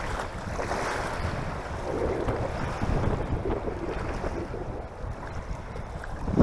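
Wind buffeting the microphone, a rumbling noise that swells and eases with the gusts.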